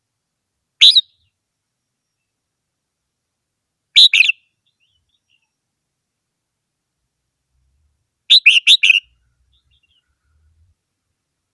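Red-whiskered bulbul singing: three short song phrases about four seconds apart, the last a run of about five quick notes.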